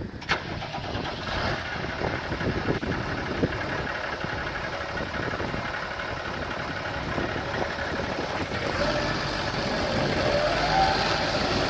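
Case IH MXU125 tractor's diesel engine starting and running, with a sharp click right at the start. The running grows louder, with a deeper, steadier note from about nine seconds in.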